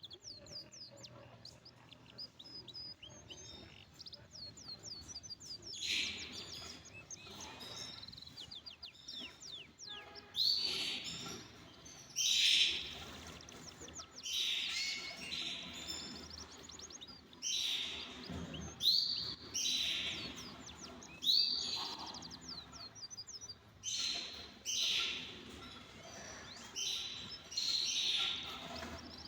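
Canaries in an aviary singing: rapid trills of high chirps in repeated phrases, getting louder and more frequent about ten seconds in.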